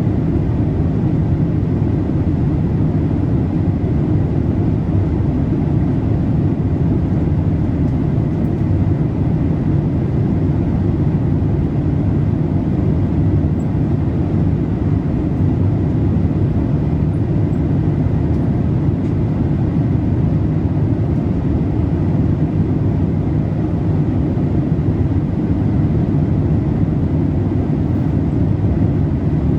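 Steady cabin noise of a Boeing 787-8 airliner in flight: an even, low rush of airflow and engine noise, with a faint steady high hum above it.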